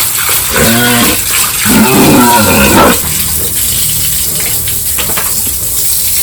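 Pigs squealing loudly, two long drawn-out squeals in the first three seconds, with running water hissing behind them throughout.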